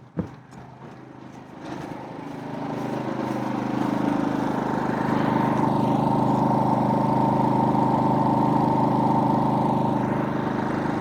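Generac GP3300i inverter generator running under the load of an RV air conditioner and refrigerator: a steady engine hum that grows louder over the first few seconds and then holds. A single click comes just at the start.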